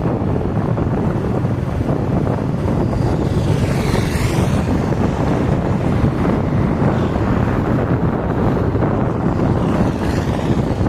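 Wind buffeting the microphone over steady road and engine noise while riding along a highway. A vehicle passes with a rising-and-falling hiss about four seconds in, and another near the end.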